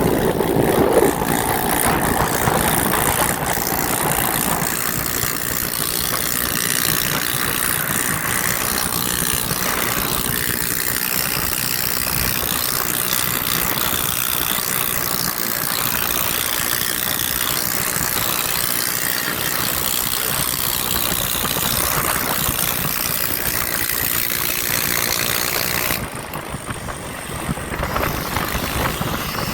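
Motorcycle and dirt-bike engines running together in a steady, noisy mix, dropping in level about 26 s in.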